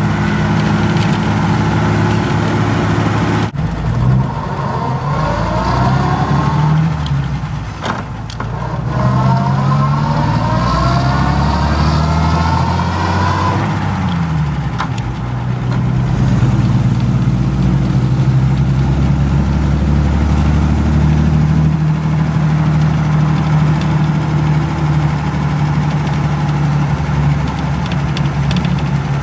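A vintage car's engine heard from on board, running on the road with tyre and wind noise. Its note breaks off abruptly twice and climbs again each time, then settles into a steady run.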